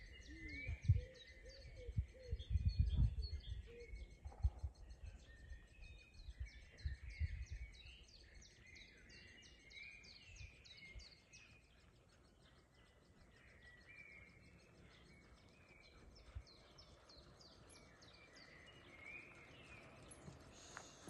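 Several songbirds chirping and singing throughout, with low rumbling thuds during roughly the first eight seconds.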